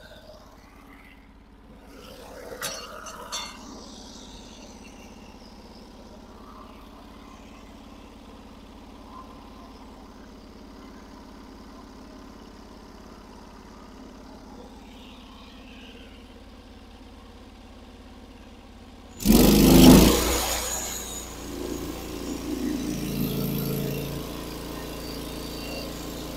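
A Norwood HD36 bandsaw mill's engine idles quietly, with a few light clicks early on. About nineteen seconds in it is suddenly throttled up and runs loud at cutting speed.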